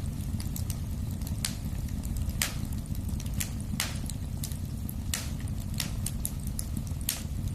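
Wood fire in a fireplace crackling, over a steady low rumble of the flames. Sharp pops and snaps come at irregular moments, a strong one about every second, with many small ticks between.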